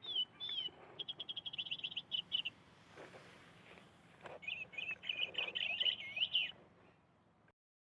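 Bird chirps and rapid trills in two runs with a pause between, the second run busier, with a few soft knocks in the pause; the sound cuts off suddenly just before the end.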